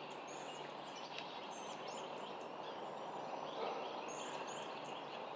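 Birds chirping outdoors: many short, high chirps scattered over a steady background hiss.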